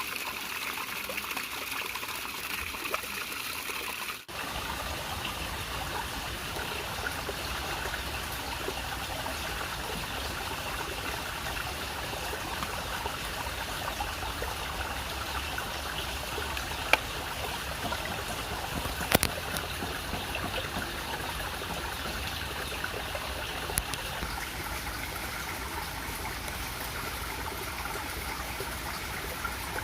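Flowing stream water, a steady trickling rush. About four seconds in it drops out briefly and comes back with a deeper low rush, and a few faint clicks stand out later.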